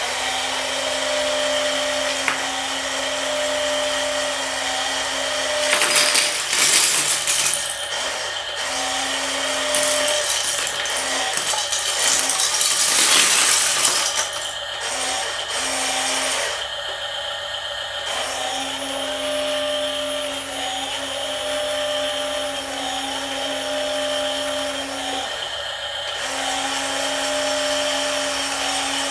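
Small electric motors and gearboxes of radio-controlled toy trucks and an excavator whirring, cutting in and out, with two louder rasping stretches about six and twelve seconds in.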